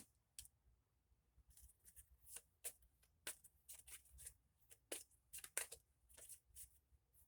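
A deck of Kipper cards being handled: a quiet, irregular string of soft papery flicks, slides and taps.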